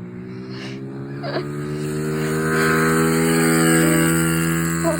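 SSR 110 pit bike's small single-cylinder engine running at high, steady revs, growing louder as the bike comes closer.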